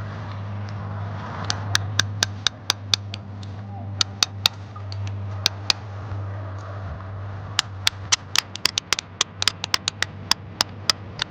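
Sharp clicking taps of a hand tool chipping and prying rock oysters off shoreline rock, in irregular runs that grow quicker and denser over the last few seconds. A steady low hum runs underneath.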